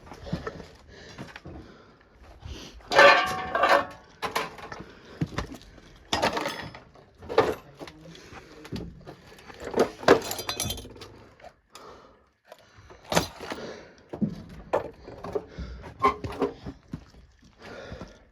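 Clutter and debris being moved and stepped through: irregular knocks, clinks and rattles, with a longer rattling clatter about three seconds in and another around ten seconds.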